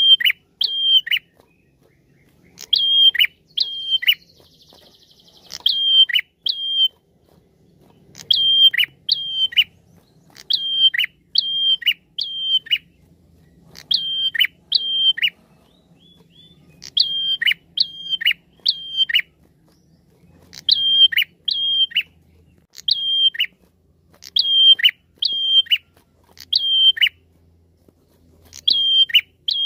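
Caged prenjak calling over and over: short high notes, each ending in a quick downward slur, come in groups of two to four with brief pauses between them. A short buzzy trill comes about four seconds in. This is the call that bird keepers use as a lure (pikat).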